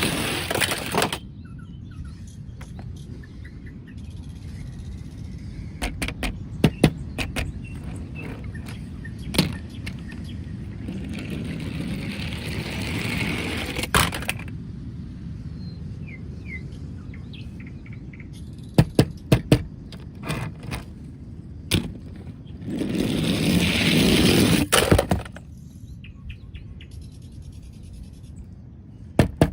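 Plastic toy vehicles rolling across a surface with a rushing sound, and sharp clacks, often in quick clusters, as they are handled, set down or knocked together.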